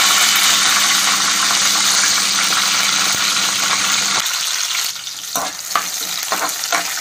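Whole green chillies frying in hot oil, a loud spitting sizzle that drops away about four seconds in. Near the end a metal spoon stirs them, with a few scrapes and clicks against the pan.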